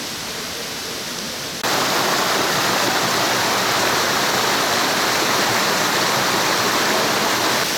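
Mountain valley stream rushing, a steady noise of running water that gets suddenly louder about one and a half seconds in.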